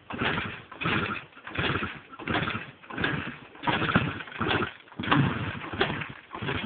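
Two-stroke engine of a 1977 Suzuki 185 Enduro dirt bike being turned over without catching, a whooshing puff about every 0.7 seconds. The engine is judged to have low compression.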